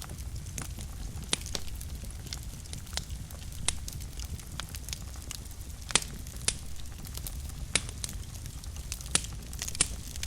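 Wood fire burning in a fireplace: a steady low rumble of the flames with irregular sharp crackles and pops, the loudest about six seconds in.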